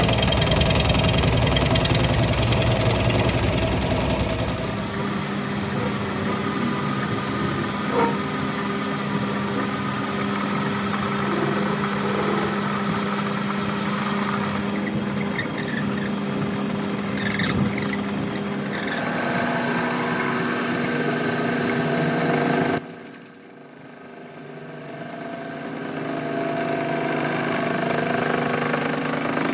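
Workshop power tools running steadily, with a steady hum and a few sudden changes in sound where the footage cuts between tools or stages of the work.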